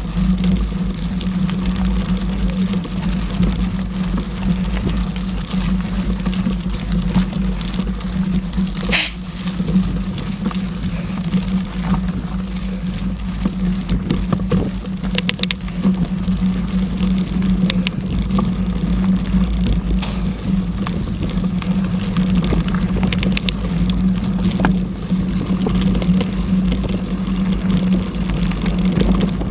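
Mountain bike riding on a dirt trail: steady rolling and wind noise on the camera microphone under a low hum, with scattered clicks and rattles from the bike.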